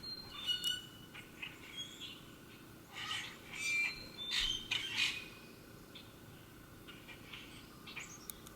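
Wild birds chirping and calling in short, scattered notes, busiest in the middle stretch, over a faint steady outdoor background.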